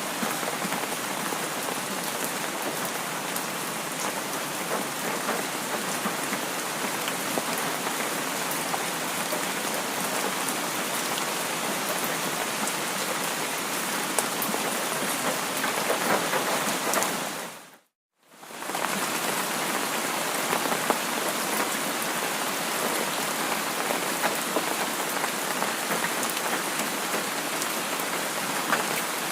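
Steady rain falling on a surface: a dense even hiss with many small drop ticks. Just past the middle it fades out to silence for about a second, then fades back in.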